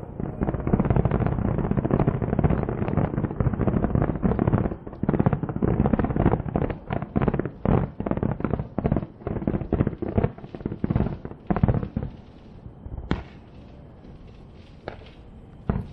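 Fireworks going off in a dense barrage of overlapping bangs and crackles, thinning after about five seconds into separate bangs that die away about twelve seconds in, with a couple of lone bangs after that.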